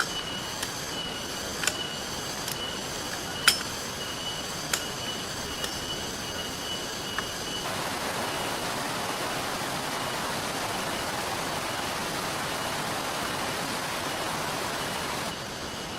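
Steady rain-and-river hiss with a campfire crackling: several sharp pops, the loudest about three and a half seconds in. About halfway through it switches to a denser, louder rushing of rain and water, then back to the crackling scene near the end.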